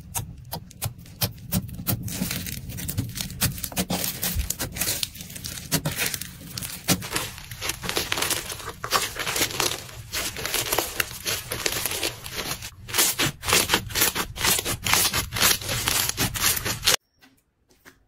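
Slime being squeezed and worked by hand, giving a dense run of quick, irregular crackles and pops. It cuts off abruptly near the end.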